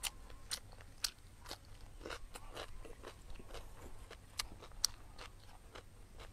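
Close-miked crunching and chewing of raw cucumber: a string of crisp, irregular crunches through the whole stretch.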